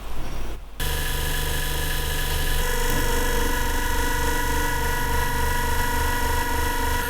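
A small electric motor-driven tool switching on under a second in, then running steadily with a regular low pulsing hum.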